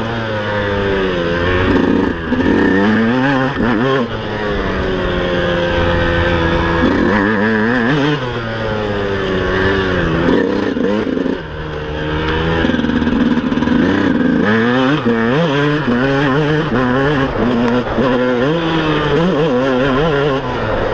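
Yamaha YZ 125 two-stroke single-cylinder motocross engine revving hard, its pitch climbing and dropping again and again as it accelerates, shifts and backs off, with a brief drop in loudness about 11 seconds in.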